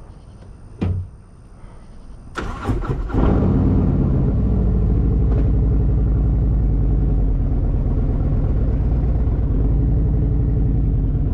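A 2024 Harley-Davidson Road Glide's V-twin engine is started. There is a click about a second in, then the starter cranks for under a second and the engine catches. It then idles steadily and loudly with an even, deep pulse.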